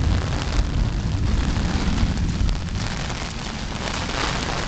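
Heavy rain falling, with a loud deep rumble over the first two or three seconds that then fades back under the rain.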